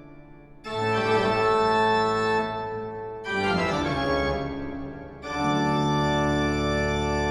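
Organ music: sustained chords that swell in about a second in, again near the middle and again past five seconds.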